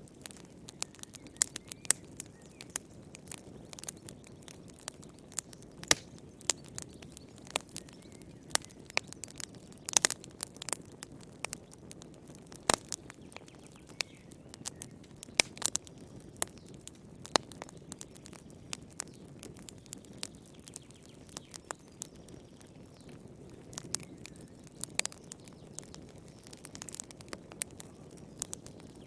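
Wood campfire crackling: irregular sharp pops and snaps, some much louder than the rest, over a low steady rush of the flames.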